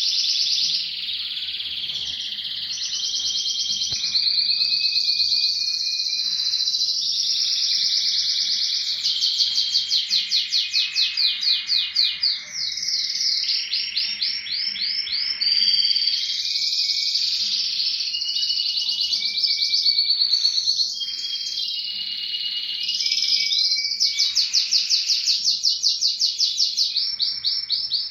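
Spanish Timbrado canary singing a long continuous song. Fast rolling trills alternate with held whistled notes and quick falling glides.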